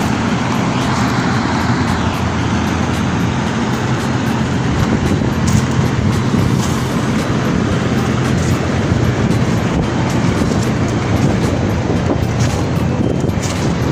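A steady low motor hum under continuous rushing noise, like a running engine with road and wind noise.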